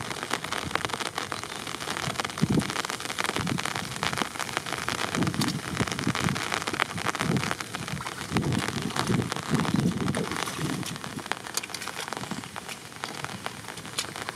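Steady rain, a dense patter of drops, with low splashes and sloshes of water and mud coming and going as someone wades through a flooded paddy and scoops mud by hand.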